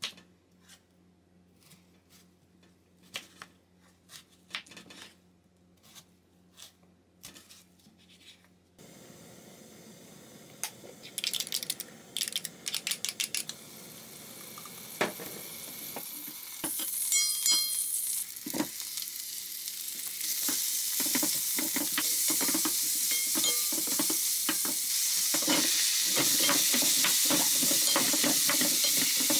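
A few light kitchen clicks and knocks, then food frying in a hot pan. The sizzle starts about nine seconds in, grows louder, and settles into a steady loud hiss near the end, with utensil clicks through it.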